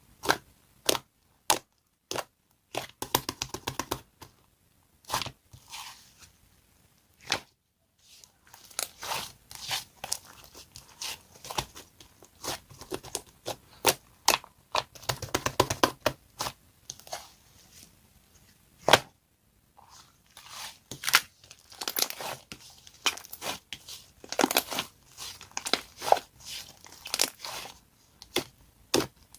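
Irregular sharp clicks, taps and short crinkling rustles from objects being handled close to the microphone.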